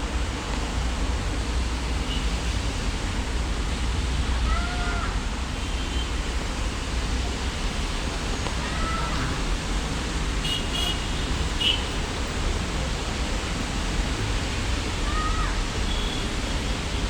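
Steady rain, an even hiss, with a few short bird chirps now and then.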